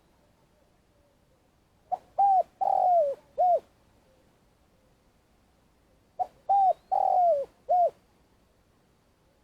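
Spotted dove cooing twice, each phrase a short clipped note followed by three coos, the third-to-last long and falling in pitch, the last one short.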